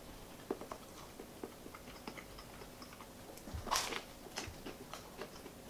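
Faint chewing of a ciabatta sandwich with ham, salami and mozzarella: small wet mouth clicks, then a crunchy bite into the crusty bread nearly four seconds in, with a smaller crunch just after, and the chewing carries on.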